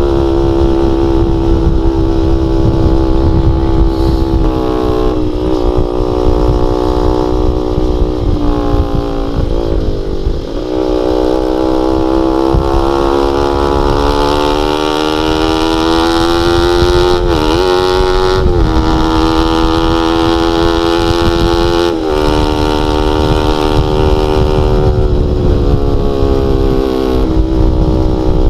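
Honda Sonic 150R single-cylinder four-stroke engine running through a CLD X Monster aftermarket exhaust with a half baffle, loud and steady. The engine note climbs slowly and falls again, with a few brief dips in pitch.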